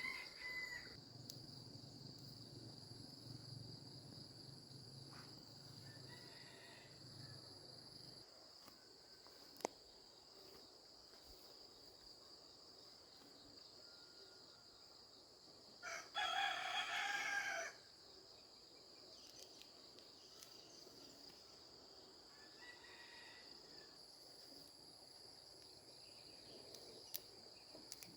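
A rooster crows once, about two-thirds of the way in, over a steady high drone of insects.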